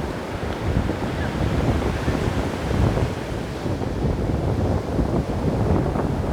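Ocean surf breaking on a beach: a continuous, deep rushing wash that stays steady throughout.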